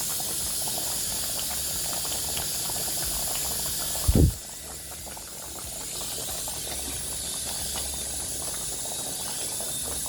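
A pot on the stove boiling, a steady bubbling hiss, with a short low thump about four seconds in.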